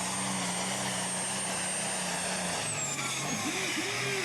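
Competition pulling tractor's tuned engine running steadily, with a high thin whine above it that glides down in pitch near the end.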